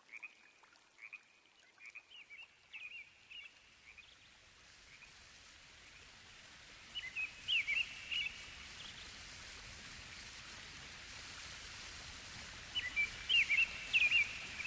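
Small birds chirping in three clusters of quick, high chirps, over a steady hiss that slowly grows louder.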